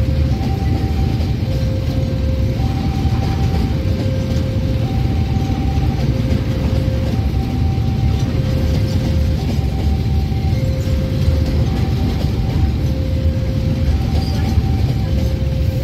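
Babaranjang coal train's freight wagons rolling past at steady speed, a continuous low rumble of steel wheels on rails. Over it a level-crossing alarm sounds two alternating tones, high then low, each about half a second, repeating roughly every two seconds.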